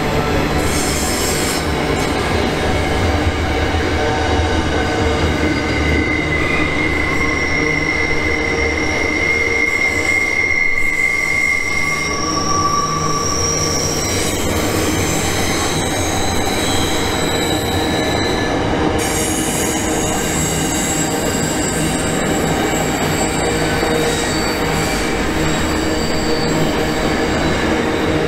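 Container wagons of an intermodal freight train rolling through a tight curve: a steady low rumble of wheels on rail, with wheel squeal. From about six seconds in come long, steady squeals at several different pitches, overlapping and handing over from one to the next.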